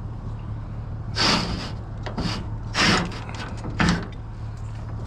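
Four short clattering, scraping noises from things being handled, over the steady low hum of an idling engine.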